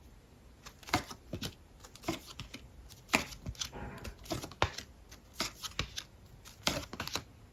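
Tarot cards being handled and laid out: a dozen or so irregular snaps and rustles of card stock.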